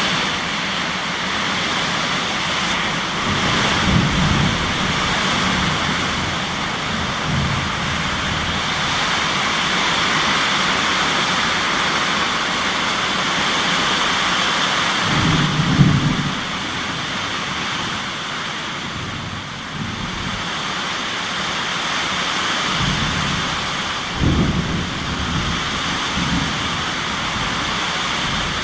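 Thunderstorm: steady heavy rain with low rolls of thunder, the strongest about sixteen seconds in and others at about four seconds and around twenty-four seconds.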